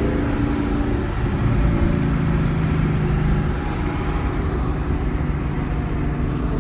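2020 Ford Mustang GT's 5.0-litre V8 running at steady revs with road noise, heard from inside the cabin as the car cruises: a constant low drone with no hard revving.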